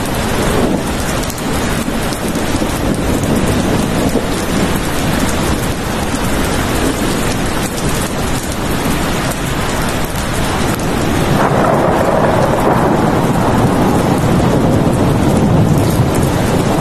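Heavy rain falling steadily, with a low rumble of thunder swelling in about two-thirds of the way through.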